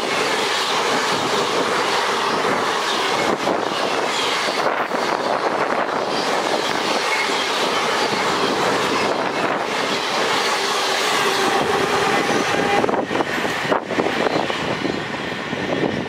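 Indian Railways express passenger coaches rushing past at speed close by: a steady loud rush and rumble of the wheels running over the rails.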